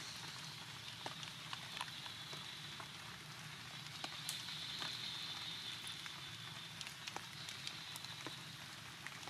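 Rain falling steadily as an even hiss, with scattered sharp drips and ticks and a steady high-pitched drone running through it.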